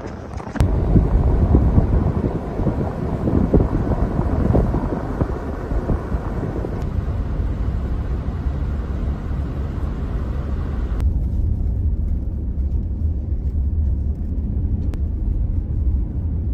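A vehicle driving, a steady low rumble with wind buffeting the microphone; the higher hiss drops away about eleven seconds in, leaving the low rumble.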